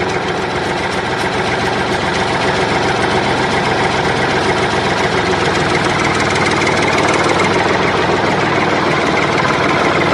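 Tractor engine idling steadily, with a fast, even chugging.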